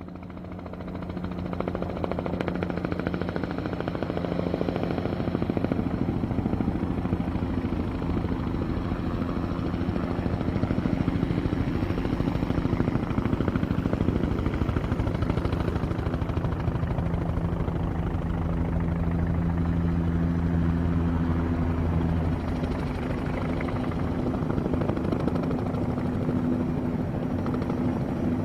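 Helicopter running steadily, a continuous low drone with rapid rotor chop. About two-thirds of the way through, its note shifts.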